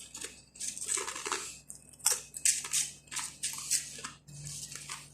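Close-up chewing of crunchy khubz (Arabic flatbread), a string of about eight irregular crunching bites, with a faint steady hum underneath.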